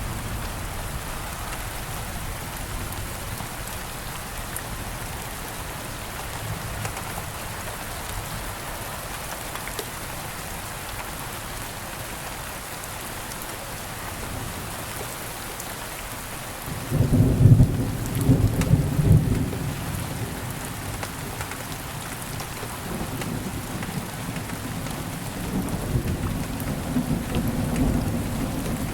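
Steady rain falling, with a sudden loud rumble of thunder about two-thirds of the way through that rolls on for a few seconds, then further low rumbling near the end.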